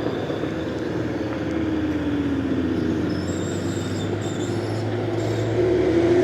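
A car engine running as the car drives in. Its note slides gently down at first, then rises and grows louder near the end.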